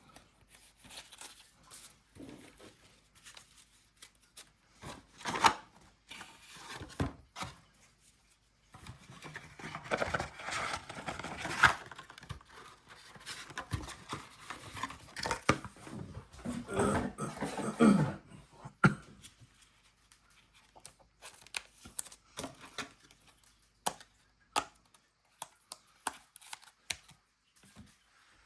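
Trading card pack wrappers being torn open and cards handled, with crinkling and rustling. The busiest tearing comes in the middle, with scattered sharp clicks of cards before and after.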